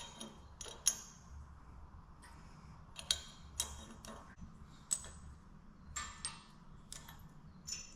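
Small pieces of hardened sickle steel and mild steel plate clinking against each other as they are stacked into a Damascus billet: about eight separate sharp metal clicks, some with a short high ring.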